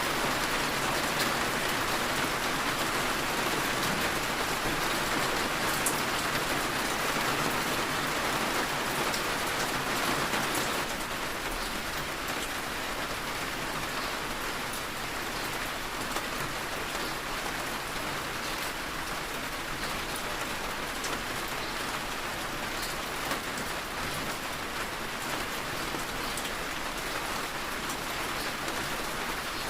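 Heavy rain falling steadily, a dense hiss with scattered individual drops tapping. About a third of the way in it eases to a slightly softer level.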